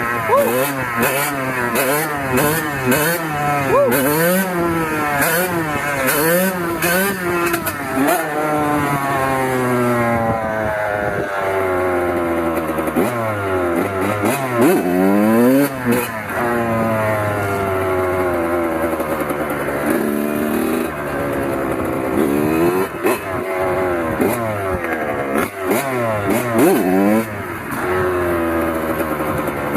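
Kawasaki KX100 two-stroke single-cylinder dirt bike engine revving up and down under riding. Its pitch swings quickly up and down in short blips for the first several seconds, then climbs and falls in longer sweeps.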